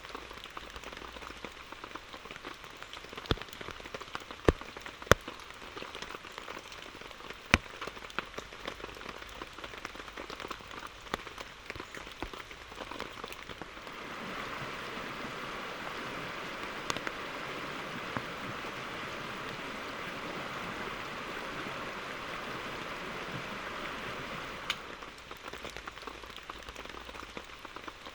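Rain falling steadily, with scattered sharp, loud drops striking close by. A louder steady hiss joins partway through, holds for about ten seconds, then cuts off suddenly.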